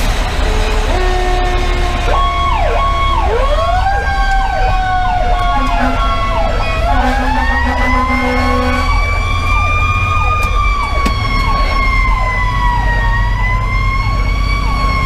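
Fire engine sirens sounding together: an electronic siren cycles in quick, repeated up-and-down sweeps while a mechanical siren, the Federal Q2B, winds up from about three seconds in. The mechanical siren climbs slowly, peaks and then eases off a little. Under both runs the steady low rumble of the truck's Detroit Series 60 diesel.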